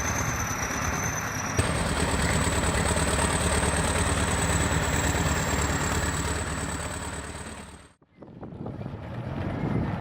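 Heavy bulldozer engine running steadily. About eight seconds in it fades out, and a different machine's engine noise starts up after a hard cut.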